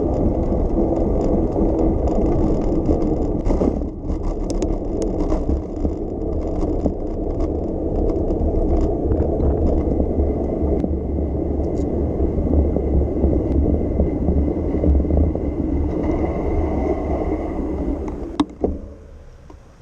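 Steady rumble of riding on a bicycle: wind on the microphone and tyre and road noise, with faint rattles and clicks. It drops off sharply after a click near the end.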